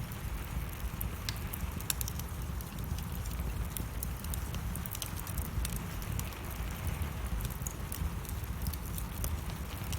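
Wood fire burning in a fireplace, logs crackling with irregular sharp pops and snaps over a low, steady rumble of the flames.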